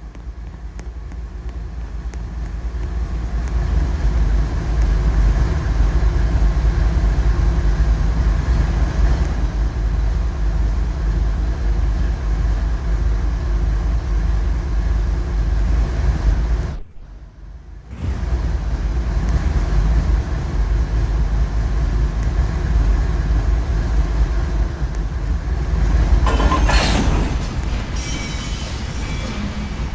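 Diesel-powered train passing close by: a heavy steady rumble with engine tones, building over the first few seconds. It drops away suddenly for about a second just past the middle, and a brief hiss rises above the rumble near the end.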